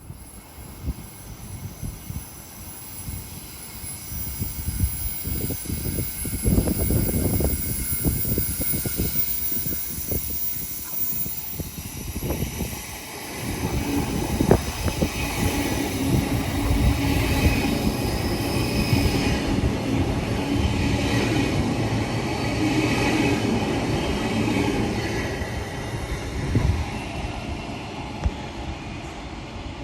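Electric suburban train running on the line, heard from inside the carriage: rumbling wheel and rail noise with repeated clicks over rail joints. It builds up over the first several seconds, eases briefly near the middle, then runs louder with a steady whine.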